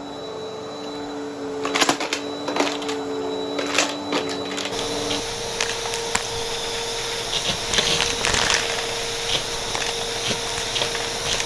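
Vacuum cleaner running and sucking up coins, which clatter and click as they are pulled through. About five seconds in, the motor's tone shifts and the rush of air grows stronger.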